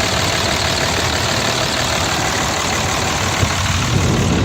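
Cummins 5.9-litre turbo-diesel inline-six idling steadily. The seller says the motor runs perfectly, with no blow-by.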